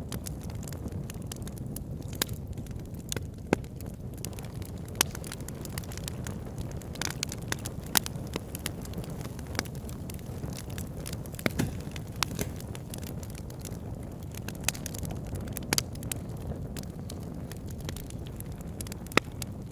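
Wood fire burning in a fireplace: a steady low rumble of flames with irregular sharp crackles and pops, a few of them loud.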